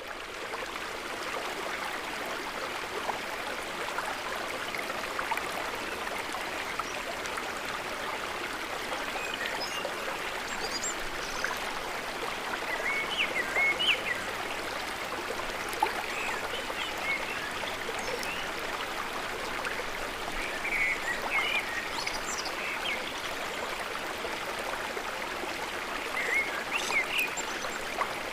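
Steady rush of flowing water, with short bird chirps now and then, most of them around the middle and near the end.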